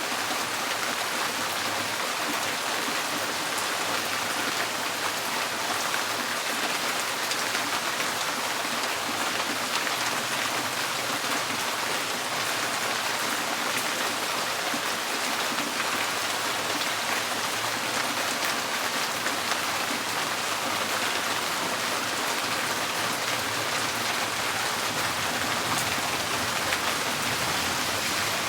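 Rain falling steadily on a tin porch roof: a dense, even patter of drops on the metal.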